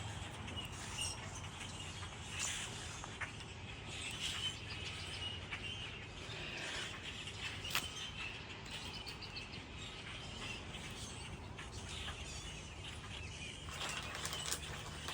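Birds chirping in short, scattered calls, with light ticks and one sharp click about eight seconds in.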